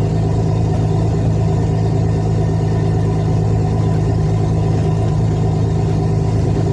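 Vehicle engine running steadily while driving, a constant low drone that holds the same pitch with no revving or braking.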